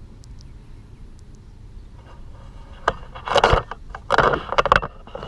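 A sharp click about three seconds in, then two short bouts of scraping and rattling with several clicks as radiator parts and fittings are handled.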